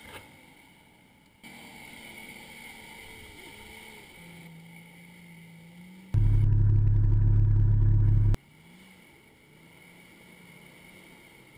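Off-road 4x4 engines working through deep mud, faint and rising and falling in pitch with the throttle. A loud, steady, low engine drone cuts in about six seconds in and cuts off abruptly about two seconds later.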